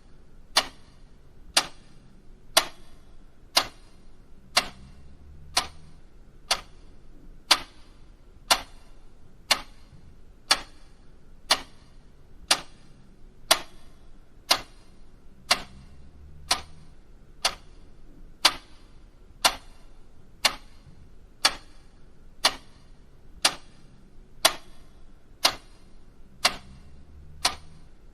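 A clock ticking steadily, about one sharp tick a second, the ticks alternating slightly in strength like a tick-tock.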